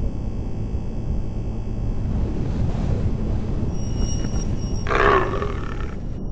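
A big cat roaring over a deep, low rumble, with the loudest burst of the roar about five seconds in.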